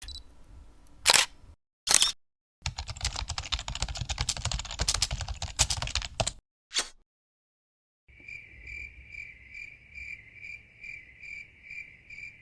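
A string of separate short sound effects: two sharp clicks, a few seconds of rapid clicking clatter, another click, then an electronic tone pulsing about three times a second.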